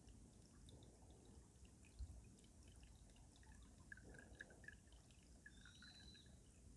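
Faint trickling and dripping of stream water running beneath winter ice, with many small scattered drips. A low thump comes about two seconds in, and a short high arching note sounds near the end.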